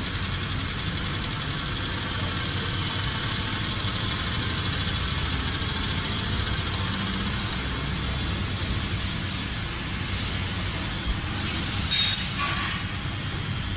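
Industrial machinery running: a steady mechanical noise with high whining tones. The sound changes abruptly about ten and twelve seconds in.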